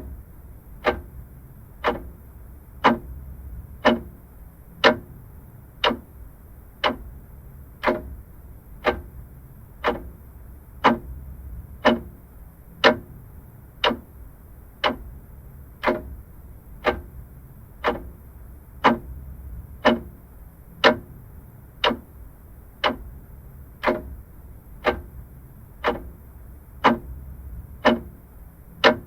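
Vintage mechanical clock ticking steadily, about one tick a second, the ticks alternating slightly in strength like a tick-tock. A faint low hum sits underneath.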